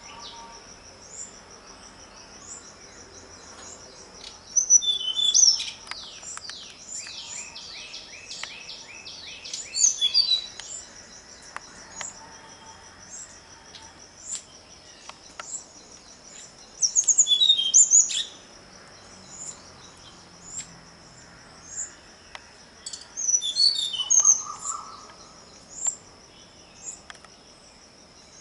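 Birds chirping and calling in bursts, with a quick run of falling notes early on and more chirp bursts later, over a steady high-pitched insect trill.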